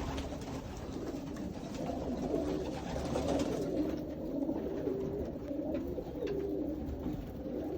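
Many racing pigeons cooing together in a loft, a continuous overlapping murmur of low coos.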